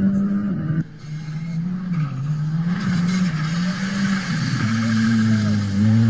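Rally car engines running hard in a string of short clips. A steady high engine note cuts off under a second in, followed by a wavering engine note under a rising hiss. About two-thirds of the way through, another steady engine note comes in and holds until it cuts off at the end.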